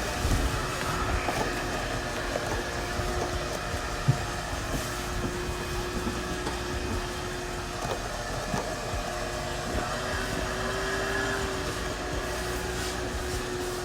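Vacuum cleaner running steadily, sucking dust off the bare-metal floor of a stripped car interior, with a few light knocks of the nozzle, one sharper about four seconds in.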